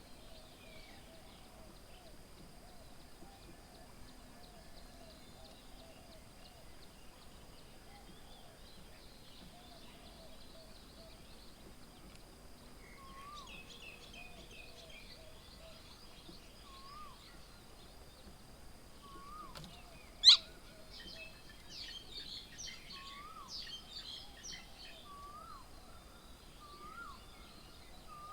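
Several wild birds chirping and calling at a garden bird table, with one bird repeating a short call every second or two in the second half and a busy spell of high chirping after about twenty seconds. A single sharp click, the loudest sound here, comes about twenty seconds in.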